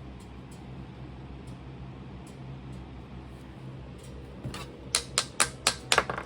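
A low steady hum, then about two-thirds of the way in a quick run of about seven sharp taps, roughly four a second: rapping to knock a casting pattern loose from its mold.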